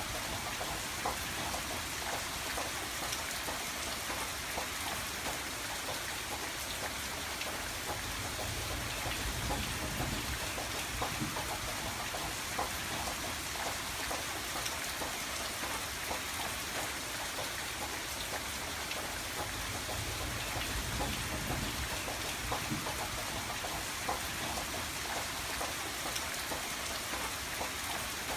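Steady rain pattering on a window pane, with many small scattered drop ticks over an even hiss and a soft low rumble.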